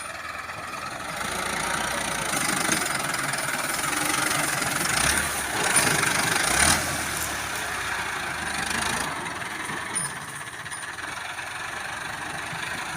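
Tractor engine running, growing louder between about five and seven seconds in, then settling back.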